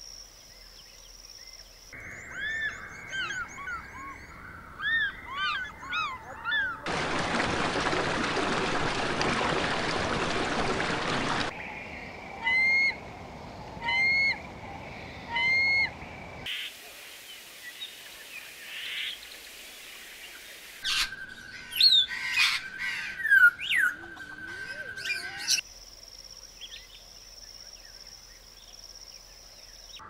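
Several different birds calling in turn, in short clips joined together: chirps and curved whistled calls, then three loud repeated calls about a second and a half apart, then a busy run of mixed calls. A loud steady hiss fills several seconds in the middle.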